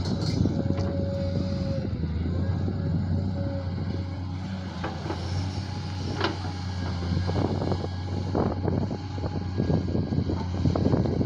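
JCB digger's diesel engine running steadily, with a thin whine in the first half and scattered knocks and clatters in the second half as it works.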